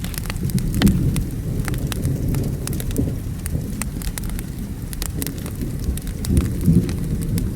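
Wood fire crackling with frequent sharp pops, over steady rain and a low rumble of thunder that swells about a second in and again near the end.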